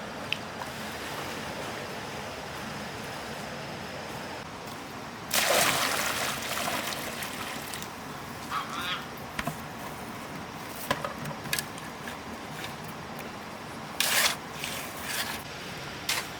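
Wet cement mix sloshing and scraping as it is worked by hand, with a loud splash about five seconds in, scattered knocks and scrapes, and another loud splash near the end.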